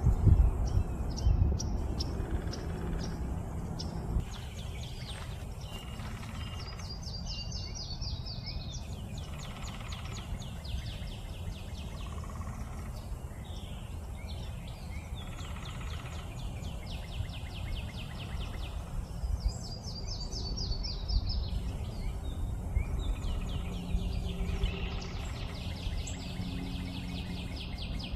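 Songbirds singing in the outdoor background: repeated runs of quick, high chirping notes, some coming in falling series. A low rumble sits under them, heaviest in the first few seconds.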